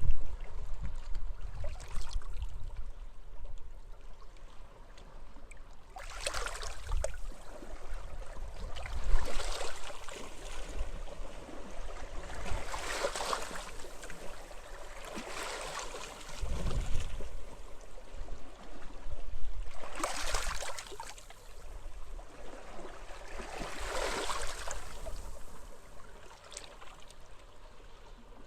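Sea waves washing onto a beach, the surf swelling and falling back every few seconds, over a low rumble of wind.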